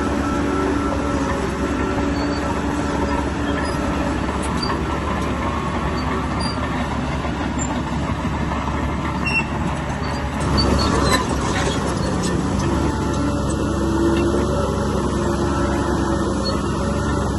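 Heavy diesel earthmoving machinery running steadily, with a louder, noisy burst about ten and a half seconds in.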